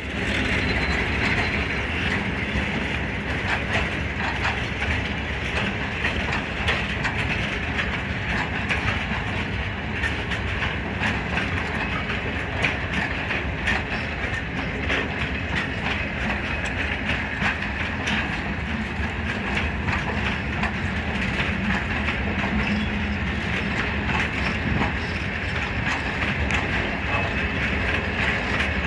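Freight train rolling past, its wagon wheels clicking over the rail joints in a steady, unbroken run of rumble and clatter.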